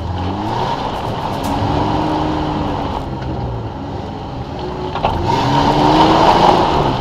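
Off-road 4x4's engine revving up and easing off about three times as it is driven over rough ground, with a harsh rush of noise growing louder near the end.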